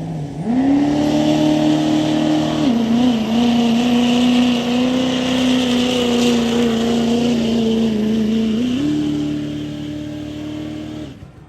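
A pulling truck's engine revving up sharply and held at high revs under load. The note steps down slightly about three seconds in and climbs again near the end, and loudness eases off before the sound drops away abruptly.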